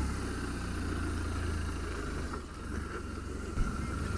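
BMW R1200 GS Adventure's boxer-twin engine running steadily at low revs while the motorcycle is ridden slowly, its deep low rumble slightly stronger at the start.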